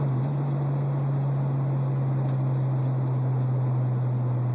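1987 BMW M6's inline-six exhaust, with stainless headers, a glass pack and Moroso and MagnaFlow mufflers, heard from inside the cabin holding a steady, pretty heavy low drone in the 2,500 to 3,000 RPM range.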